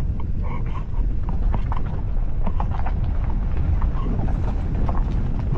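Vehicle driving along a road: a steady low rumble with scattered knocks and rattles.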